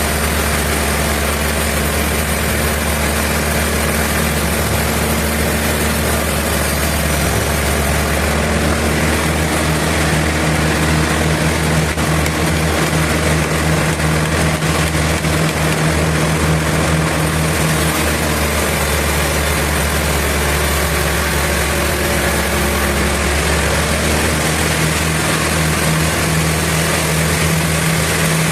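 Sawmill machinery running steadily: a loud, low, engine-like drone with a constant hum.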